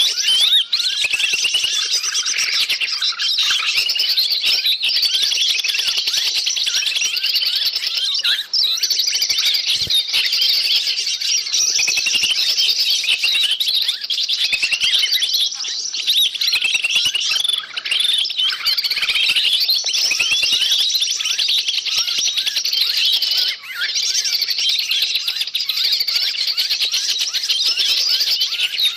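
Dense, noisy chorus of many small forest birds chirping and calling at once, overlapping without a break: a bird-lure recording (suara pikat) used to draw wild birds in. The calls are high, quick chirps and short rising and falling whistles, with a couple of brief lulls.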